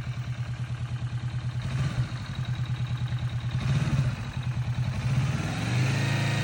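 Motorcycle engine running at low revs with an even throb, getting louder after about five seconds as it picks up a little.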